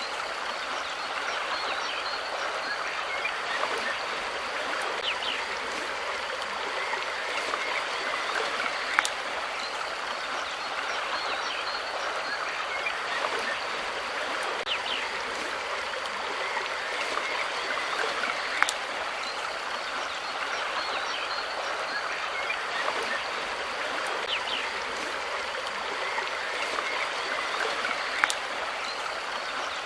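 Steady rush of running water, like a stream. Three sharp clicks are spaced about nine to ten seconds apart, and a few faint short chirps sound over it.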